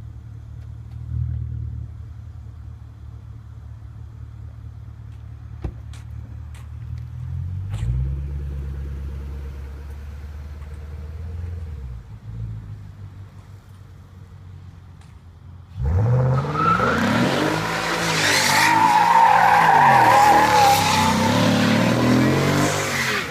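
Hyundai Genesis 4.6-litre V8 through a Borla cat-back exhaust idling with a couple of short revs, then about two-thirds in it goes suddenly loud into a wheelspin: the engine revs high with its pitch rising and falling while the tyres squeal.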